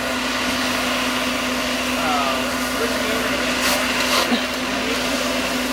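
Steady engine drone with a constant hum and hiss.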